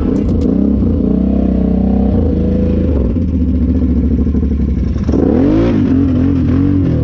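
Off-road ATV engine revving up and down under throttle, its pitch rising and falling, with a sharp burst of revs about five seconds in.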